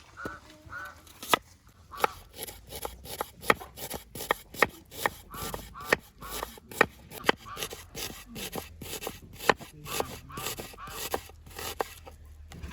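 Rapid, irregular sharp knocks or clicks, several a second, with short pitched bird calls among them.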